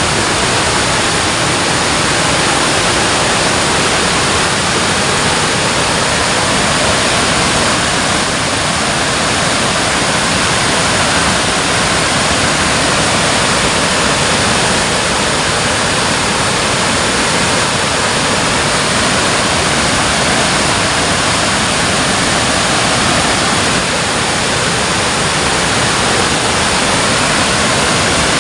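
Water from a dam spilling and churning in a steady, loud rush of white water.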